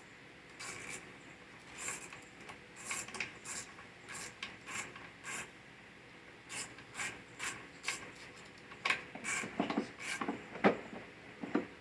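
Irregular scraping and rubbing strokes from hand work on small-engine parts, growing denser and louder in the second half, with a few sharper knocks near the end.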